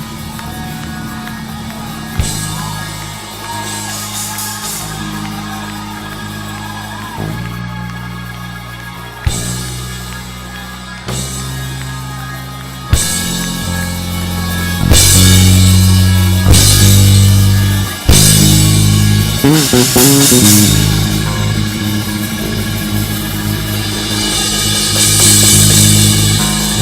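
Live band music with drums, bass and held chords. The full drum kit and cymbals come in about halfway through, and it gets louder.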